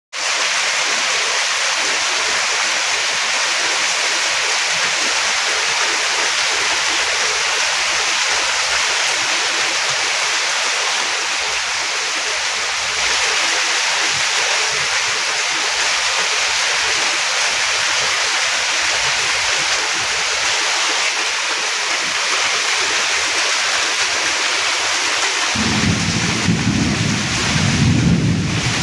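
Heavy rain falling steadily, an even hiss. Near the end a low, pulsing rumble joins it.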